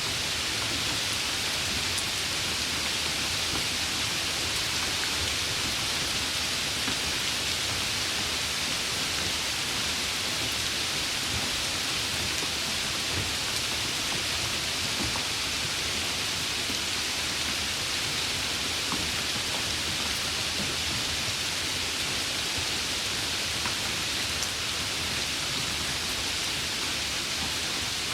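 Heavy rain falling in a steady, even hiss, with the odd louder drop ticking through.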